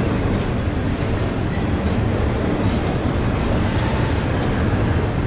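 Double-stack intermodal freight train's well cars rolling past, a steady rumble of steel wheels on rail, with a few faint, short high squeals.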